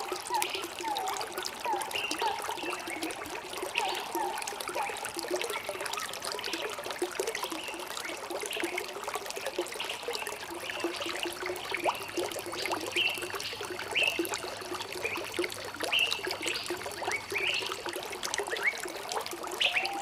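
Shallow running water trickling and gurgling, a steady stream of small bubbling notes. A faint thin high tone holds for several seconds past the middle.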